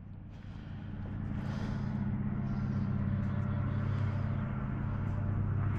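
A steady low engine-like hum, growing louder over the first two seconds and then holding steady.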